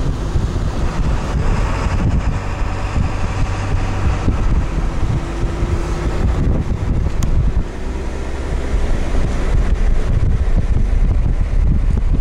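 A car driving, its engine and road noise heard from inside the cabin as a steady low rumble, with wind buffeting the microphone.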